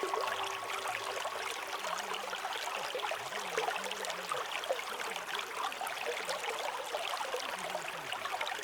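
Running water of a babbling stream, a steady wash full of small trickles and splashes. The ring of a struck singing bowl fades out about a second in.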